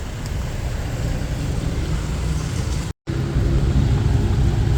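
Street traffic: a steady low rumble of motor vehicles. The sound drops out completely for a split second about three seconds in, at a cut in the recording.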